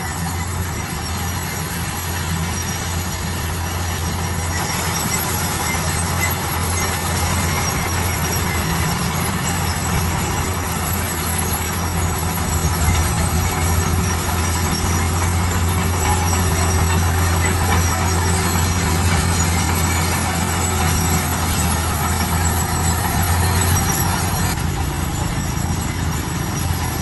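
Heavy diesel construction machinery running steadily under load, a continuous low engine drone with mechanical clatter and hiss over it.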